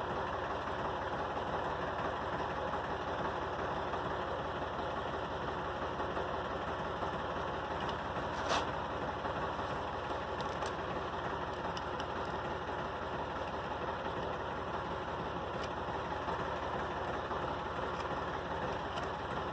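Massey Ferguson 231 tractor engine idling steadily, with a single sharp click about eight and a half seconds in.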